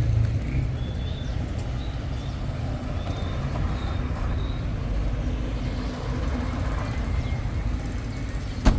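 A car's engine running steadily with a low rumble. A single sharp click comes near the end.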